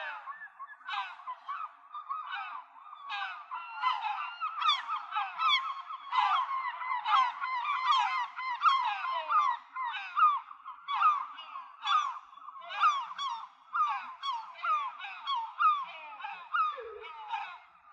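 A flock of gulls calling over one another: many short, overlapping calls, thickest through the middle.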